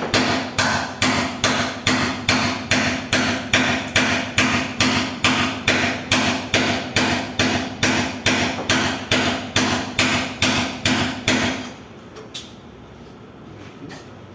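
Steady, evenly spaced hammer blows on metal, about two and a half a second, each leaving a short ringing tone. They are knocking the bearing and seal out of an industrial washing machine's drum assembly. The blows stop near the end.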